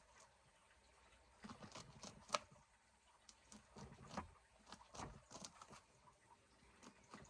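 Faint, irregular small clicks and crackles, a few each second, with one sharper click about two seconds in.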